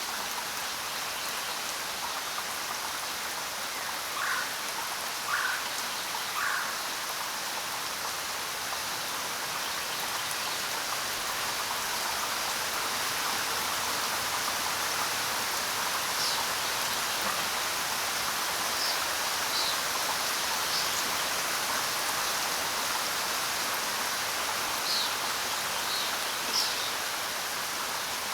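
Steady rain falling on the ground, an even hiss of drops. A few short high chirps stand out over it: three close together early on and several more in the second half.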